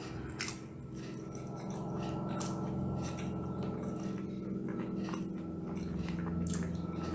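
Close-up chewing of a mouthful of breaded cod, with wet mouth sounds and a few sharp clicks. A steady low hum runs underneath.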